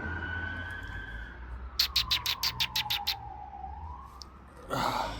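An emergency vehicle's siren wailing, its pitch sliding slowly down and then back up. In the middle comes a rapid run of about ten sharp bird chirps.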